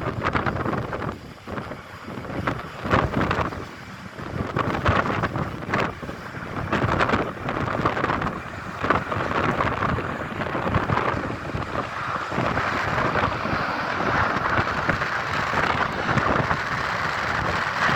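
Boeing 737-900ER's CFM56-7B jet engines at takeoff thrust, heavily buffeted by strong wind on the microphone. A steadier engine roar builds in the second half.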